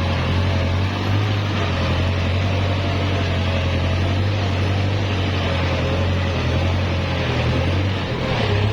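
Kubota L5018 tractor's diesel engine running steadily at a constant pitch under load while plowing.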